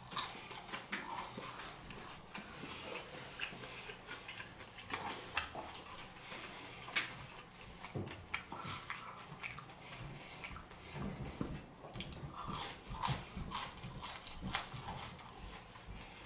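Close-miked chewing and biting of food, with irregular wet crunches and mouth clicks.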